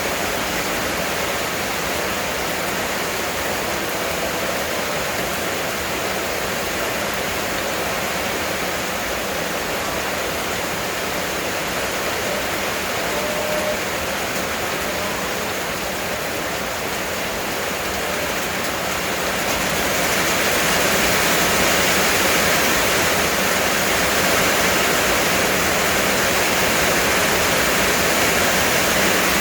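Heavy rain pouring down in a steady downpour, swelling louder and heavier about two-thirds of the way through.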